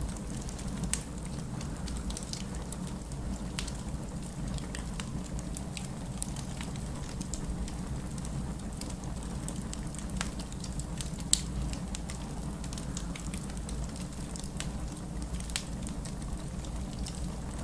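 Wood fire burning in a fireplace, crackling with scattered sharp pops over a steady low rumble; one louder pop about two-thirds of the way through.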